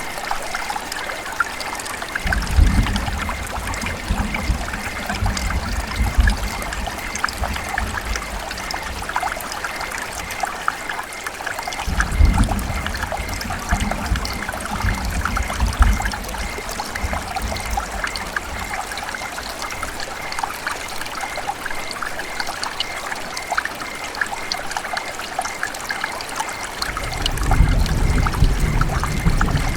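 River water running and trickling steadily, a dense splashing hiss full of small ticks and gurgles. Three spells of low rumble come and go beneath it: about two seconds in, around twelve seconds, and near the end.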